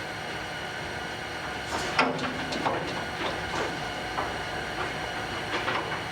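Irregular metallic clinks and scrapes of a steel exhaust header and its cap screws being worked into place on the cylinder head, the sharpest clink about two seconds in, over a steady background hiss.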